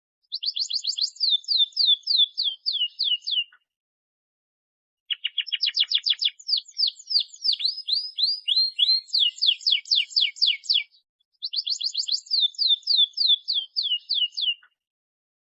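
Domestic canary singing in fast trills of rapidly repeated falling notes. It sings three phrases broken by short pauses, and the middle phrase is the longest.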